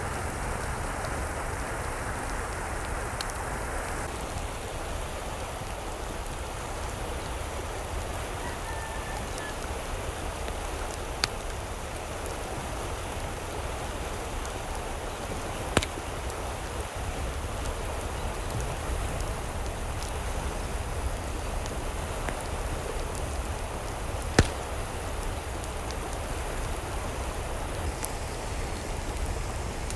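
Steady rain falling, with three louder sharp drop impacts spread through.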